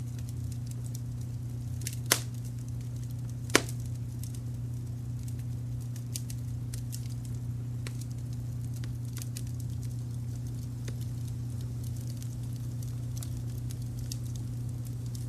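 Wood fire crackling with scattered small snaps, and two loud sharp pops about two and three and a half seconds in, over a steady low brown-noise rumble.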